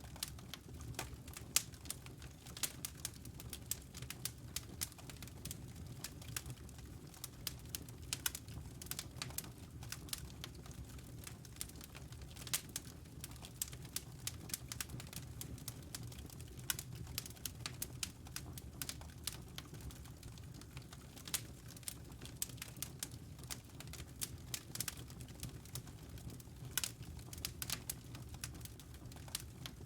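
Wood logs burning in a fireplace: a steady low rumble of flame with many sharp, irregular crackles and pops.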